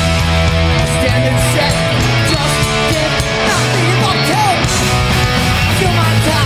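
Hardcore punk band playing live: distorted electric guitars and bass over drums, with the chords changing every second or so.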